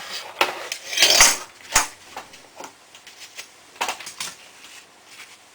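A laptop hard drive being pulled out of its bay and handled: scraping and clicking of metal and plastic parts, loudest about a second in, then a sharp click and a few lighter clicks later.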